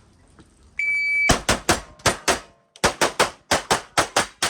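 A shot timer beeps once, briefly, and rapid gunfire follows: a string of six shots, a short pause, then about nine more at roughly five shots a second.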